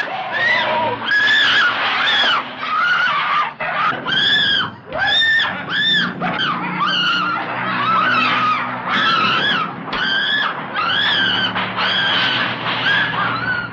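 A woman screaming over and over in high-pitched shrieks, each rising and falling and lasting about half a second to a second, with a low steady drone beneath them through the middle.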